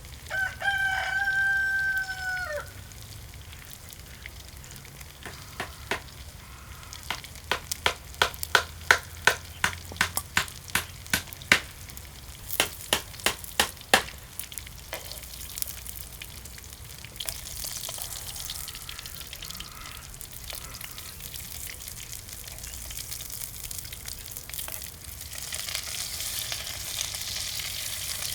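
A rooster crows once near the start. A run of sharp knocks follows, about two a second for roughly nine seconds. Then food sizzles in a pan, with the sizzle growing louder near the end.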